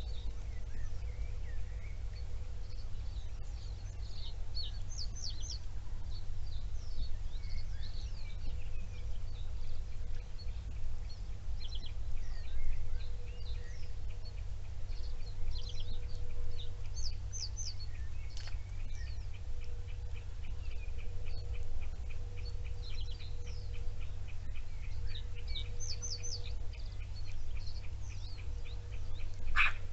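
Small songbirds chirping and singing in short high calls over a steady low rumble. From about two-thirds of the way through, a fast, even series of ticking notes joins in, and a single sharp, louder call comes near the end.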